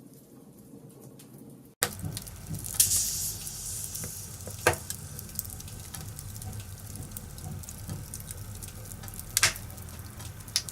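Wood fire burning in a fireplace, crackling and hissing with sharp pops of the burning wood. It is faint at first, then louder after a brief cut about two seconds in.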